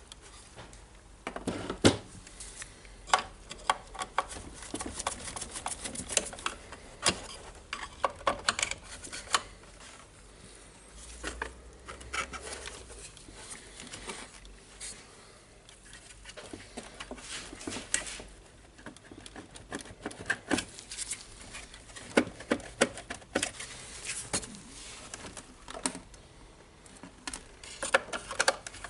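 Irregular clicking and clattering of hard plastic parts and small tools being handled while a radio's housing is taken apart, with sharp clicks coming in quick runs and short pauses between them.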